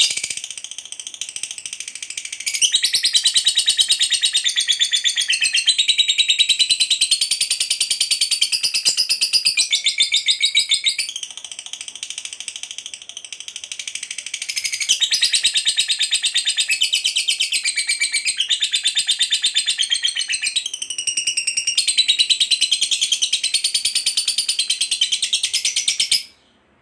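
Lovebird ngekek: a long, rapid, shrill chattering trill of fast repeated high notes. It grows loud about three seconds in, eases off for a few seconds in the middle, then is loud again until it cuts off shortly before the end.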